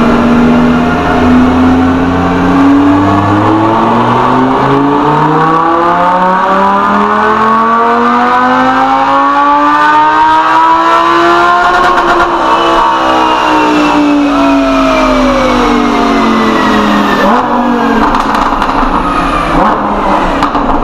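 Lamborghini Huracán's V10 engine on a chassis dyno, on its stock exhaust, pulling up steadily through the revs for about twelve seconds, then winding down as the run ends.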